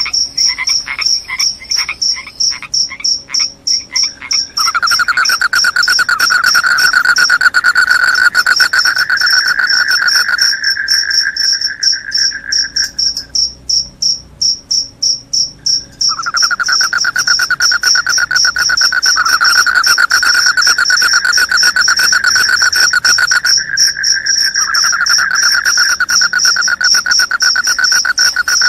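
Crickets calling: a loud, high chirp in fast, even pulses that runs on without a break. A lower, rapid trill joins about five seconds in, stops about halfway through, and starts again a few seconds later.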